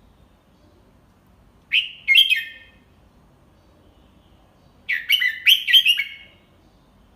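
Red-whiskered bulbul singing. It gives a short phrase about two seconds in, then a longer phrase of several quick notes about five seconds in.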